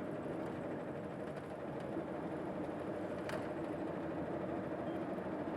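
Inside an Odakyu Bus city bus while it drives: the engine and drivetrain hum steadily. A single sharp click comes a little over three seconds in.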